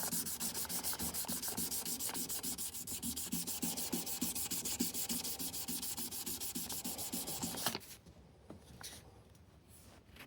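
Abrasive rubbed rapidly back and forth over the metal frets of a Martin D16 acoustic guitar during fret dressing: a fast, even scratchy rubbing. It stops abruptly near the end, leaving only a few faint ticks.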